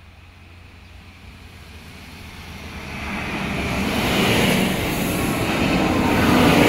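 Alstom Coradia LINT 54 diesel multiple unit approaching and passing close by at speed. The rumble and the wheel-on-rail hiss swell from about two seconds in to their loudest as the cars go by, with a steady low engine drone underneath.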